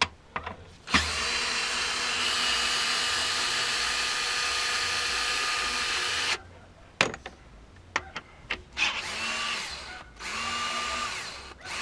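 Power drill-driver backing out exhaust manifold screws. It runs for about five seconds with a steady whine, then after a few clicks gives two shorter runs that spin up near the end.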